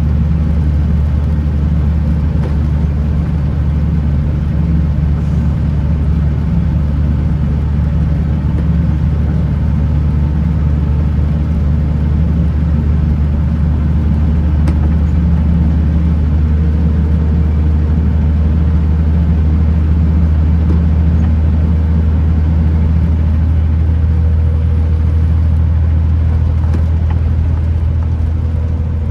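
Kenworth T909 truck on the road: a steady low engine drone over tyre and road noise. A faint thin whine joins about halfway through.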